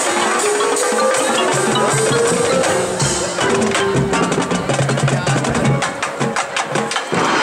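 Marching band playing: wind instruments hold a melody over low bass notes, with drums and other percussion, and a quick run of rapid percussion strikes in the last couple of seconds.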